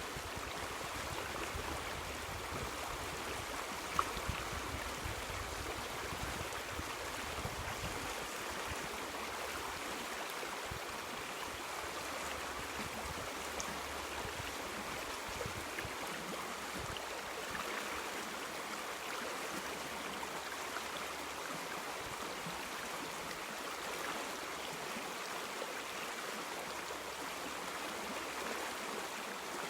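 River water flowing steadily, with a continuous rushing sound. There is a single brief tick about four seconds in.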